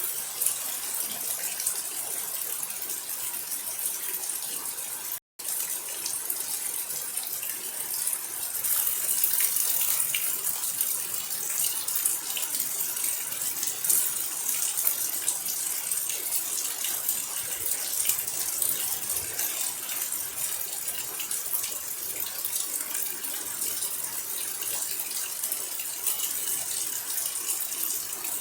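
Steady rain falling, a dense hiss of many small drop impacts, with a brief cut to silence about five seconds in.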